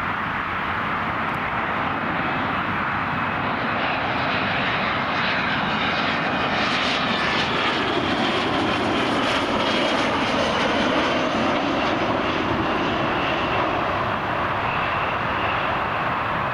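Jet airliner's engines heard as it flies past, a steady rushing noise that swells to its loudest about two-thirds of the way through and eases a little near the end.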